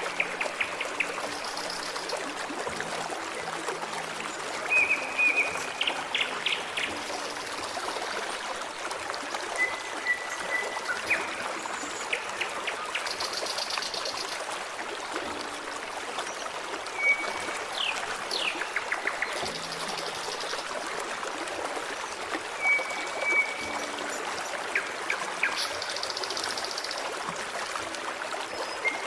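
Forest stream babbling steadily, with songbirds calling over it: short chirps, trills and whistles come every few seconds, including a quick rising whistle about eighteen seconds in.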